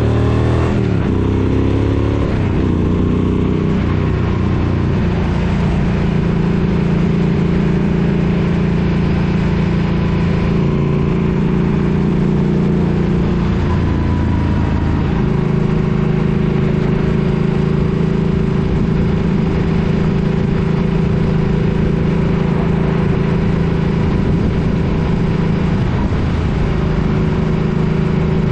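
Suzuki Boulevard M50's V-twin engine running under way; its pitch drops in the first second, then holds steady at cruise, with small changes in engine note about four seconds in and about halfway through.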